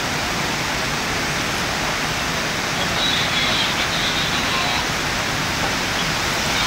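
Steady roar of rushing muddy floodwater, a torrent swollen by typhoon rain pouring past without a break.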